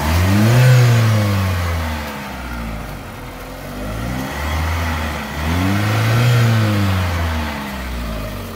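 Mitsubishi Pajero iO's four-cylinder GDI petrol engine revved twice from idle. Each time the pitch climbs quickly, then falls back over about two seconds. It is heard close to the open engine bay.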